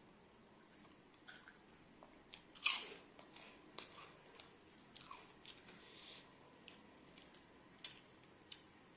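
Close-miked eating: a person chewing and biting crunchy food, with one loud crunch about two and a half seconds in and smaller crunches and mouth clicks scattered through the rest.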